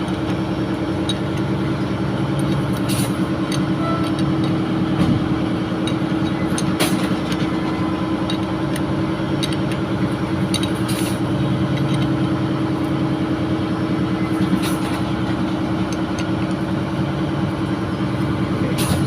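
Steady drone of running diesel machinery in a ship's engine room, with a few short sharp clicks over it.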